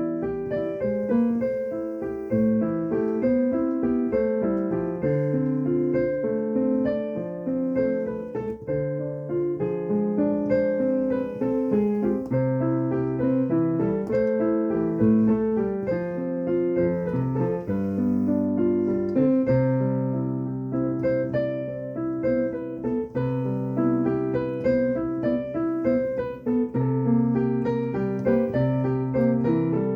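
Improvised piano playing: a continuous flow of melody over held low chords.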